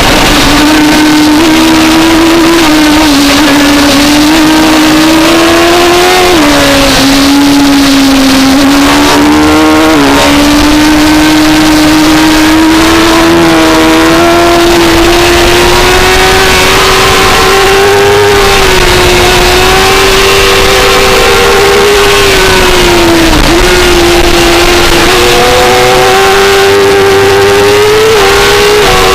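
The 2004 Suzuki GSX-R600's inline-four engine is heard on board at racing speed, running loud and high-revving. Its pitch drops briefly a few times, at about 6, 10 and 23 seconds in, then climbs again, over a steady rush of noise.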